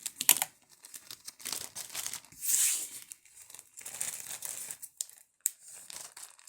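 Crinkling and rustling of packaging being handled, coming in uneven spurts, with a sharp click about five and a half seconds in.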